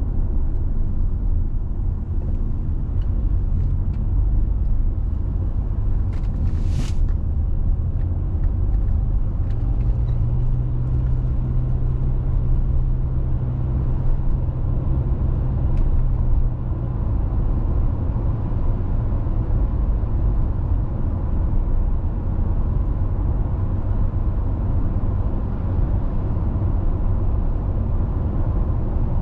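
A car being driven on a road, giving a steady low rumble of tyres and engine. A steadier low hum joins it for several seconds midway, and a brief hiss comes about seven seconds in.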